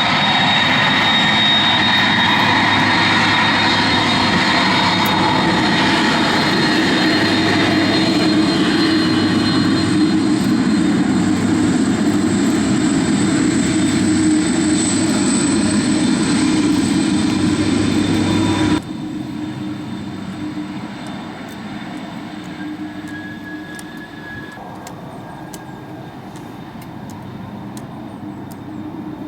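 Airbus A300-605R's jet engines running close by at taxi power, a steady jet whine with high tones over a deep rumble. About nineteen seconds in the sound drops suddenly to a quieter level and then slowly fades.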